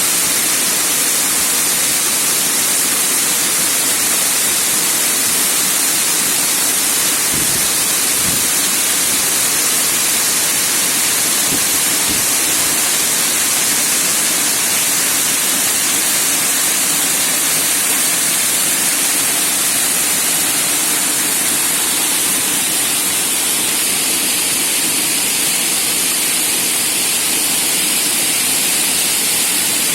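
Waterfall rushing, a steady loud hiss of falling water. A few faint low bumps come about a third of the way in.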